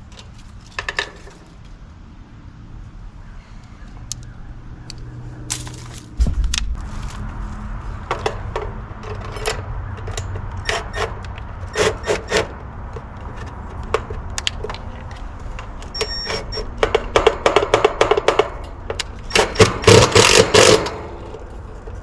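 Metal clicks, rattles and scrapes of tools, wire terminals and the capacitor being handled as a dual run capacitor is swapped in an air conditioner's outdoor unit, busiest near the end. A steady low hum comes in about six seconds in.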